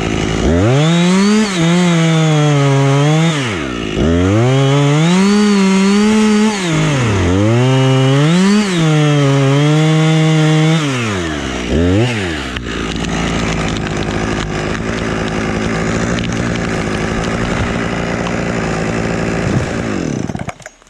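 Husqvarna two-stroke chainsaw held at full throttle four times for a few seconds each, dropping back between pulls, then blipped once and left idling for several seconds before it cuts off just before the end.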